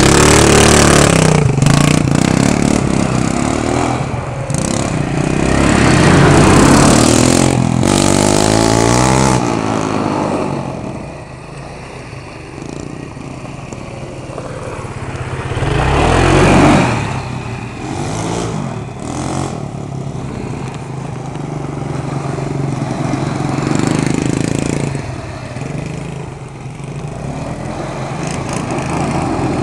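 Unmuffled 110cc ATV single-cylinder engine running and revving, its pitch rising and falling with the throttle. It is loud for the first ten seconds, drops back, and surges loud again briefly about sixteen seconds in.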